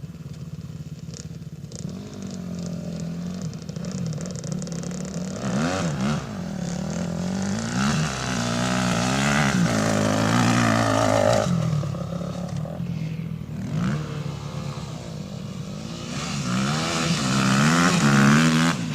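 Motocross or enduro dirt bike engine revving up and down repeatedly, its pitch rising and falling with the throttle, getting louder from about two seconds in.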